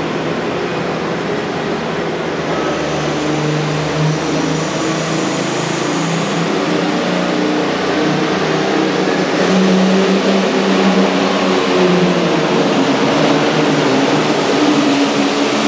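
Super Farm pulling tractor's turbocharged diesel engine running hard under load. A high whine climbs steadily in pitch for a few seconds and cuts off, and the engine gets a little louder after that.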